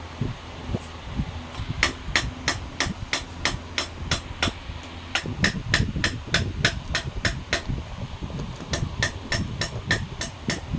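Hammer striking metal in rapid, even taps, about four to five a second, each with a short bright ring, starting about two seconds in. A low rumble lies underneath.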